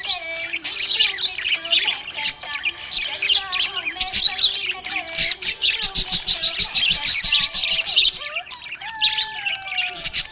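Budgerigars chirping and chattering in many overlapping short calls, with a run of fast repeated notes around the middle.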